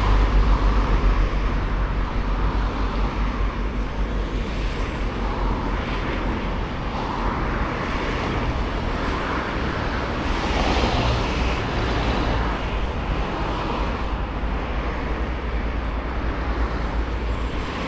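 Steady outdoor noise with a fluttering low rumble of wind on the microphone and slow swells every few seconds.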